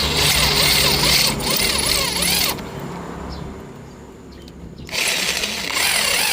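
Electric hand drill running under load in two bursts, stopping about two and a half seconds in and starting again about five seconds in, with a wavering pitch as the bit bites: drilling into the rusted, snapped exhaust stud in the cylinder head.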